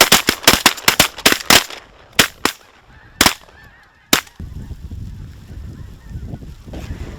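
A volley of shotgun fire from several waterfowl hunters: about fifteen shots in quick, overlapping succession, thinning out over about four seconds, as they shoot at geese and ducks coming into the decoys. After that comes a low steady noise.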